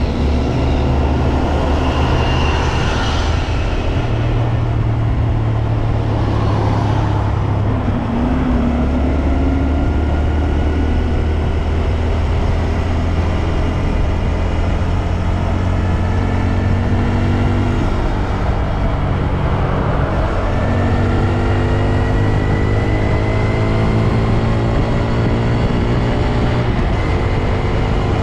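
Honda Grom's air-cooled single-cylinder engine and gearbox running under way, a steady low drone with a whine whose pitch rises slowly in the second half, over wind and road noise. The owner suspects a transmission fault behind the bike's strange noise.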